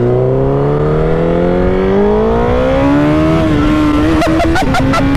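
Honda CBR1000RR SP's inline-four engine pulling hard under acceleration, its pitch rising steadily, then dropping at an upshift about three and a half seconds in and running on at a steady pitch. Wind rush is heard over the engine.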